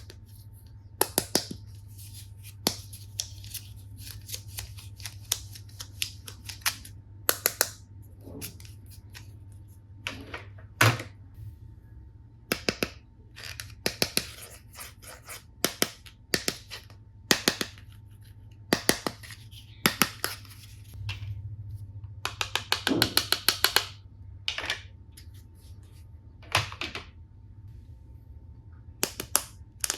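Sharp plastic clicks and taps, singly and in quick clusters, from toy tool-set pieces being handled and fitted together, with a denser run of clicks near the end.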